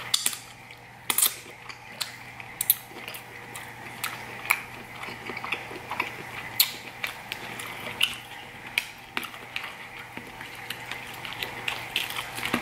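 Close-miked mouth sounds of someone eating lobster tail: wet smacking and clicks from chewing, irregular, a few a second, over a faint steady hum.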